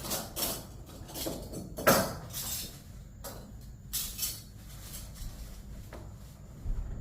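Irregular knocks and clinks of hard objects being handled, the loudest about two seconds in, over a low steady rumble.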